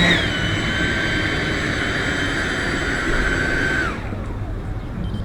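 Electric ducted fan of a 3D-printed L-39 model jet running with a steady high whine, its pitch dipping slightly just after the start, then spooling down and stopping about four seconds in.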